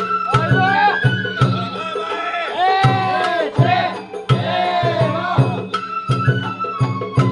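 Sawara-bayashi festival music: a high melody line played over regular, sharp drum and percussion strokes.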